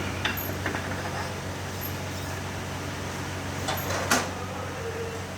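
A steady low hum with a few short metallic clicks and one sharper knock about four seconds in: work on engine parts, with tools and metal pieces being handled.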